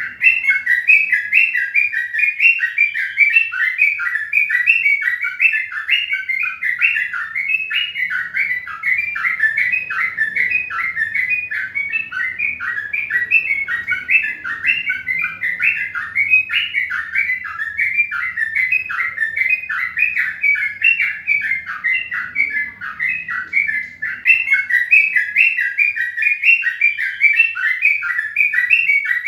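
Birds chirping continuously: short, quick notes repeated a few times a second at a steady pace throughout.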